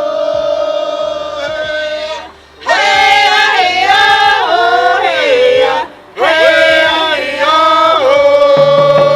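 A song: voices singing a slow chanted melody in long held phrases over a steady low drone, breaking off briefly twice.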